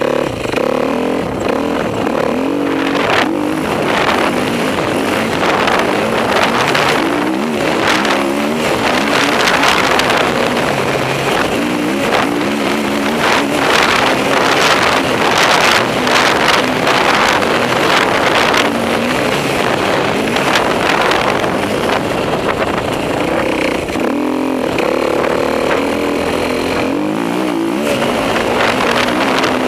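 Off-road motorcycle engine being ridden hard, its pitch rising and falling again and again as the throttle is opened and closed.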